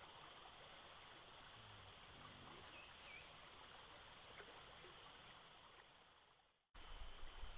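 Insects chirring in a steady, high-pitched drone over a faint outdoor hiss. It fades out and cuts off near the end, then picks up again.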